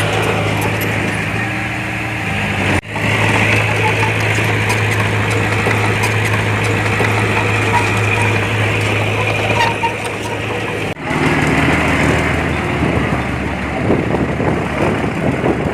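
Diesel engine of heavy earthmoving machinery running steadily under load. The sound breaks off abruptly about three seconds in and again about eleven seconds in, and after the second break the engine sound is lower and rougher.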